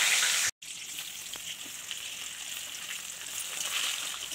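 Cumin, dried red chillies, bay leaves and chopped garlic sizzling loudly in hot mustard oil in a steel kadhai. The sound cuts out briefly about half a second in, then comes back as a quieter, steady sizzle of sliced onions frying, with a few scrapes of a metal spatula stirring them.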